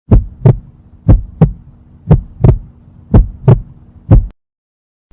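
Heartbeat sound effect: deep lub-dub thumps about once a second, four double beats and then a last single beat, stopping a little after four seconds.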